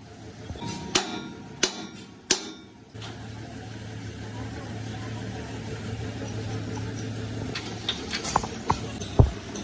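Three sharp knocks, then a motor or engine starts about three seconds in and runs with a steady low hum. Several more sharp knocks come near the end.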